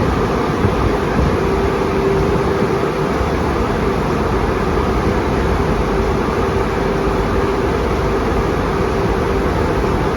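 Istobal tunnel car wash dryer blowers running: a loud, steady rushing of air with a constant hum.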